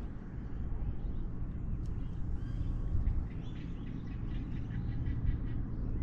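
Wild birds chirping and calling in short scattered notes over a steady low rumble.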